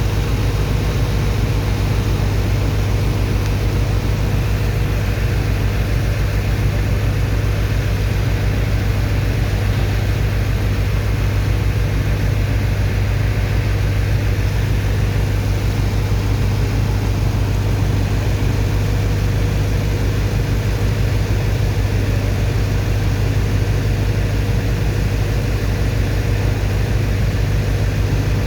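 Heavy engine of a sand-unloading pump machine running at a constant speed, a loud, steady low drone with a faint steady hum above it.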